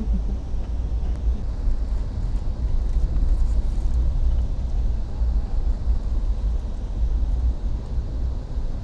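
Steady low rumble and running noise of a moving passenger train, heard from inside the coach.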